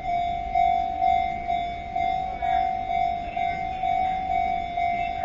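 Electronic level-crossing warning bell ringing in an even, repeating pattern of about two clear pitched chimes a second, sounding while a train approaches.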